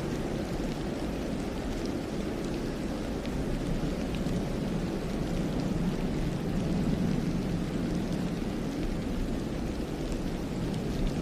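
Wind blowing through a snowy pine forest: a steady, even low rush, with a few faint scattered ticks.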